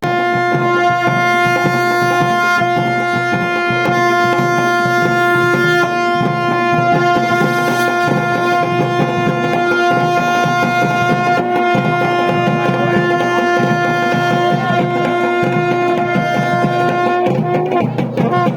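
Procession music: drums beaten in a fast, dense rhythm under a wind instrument holding one long steady note, which slides and stops about a second before the end while the drums play on.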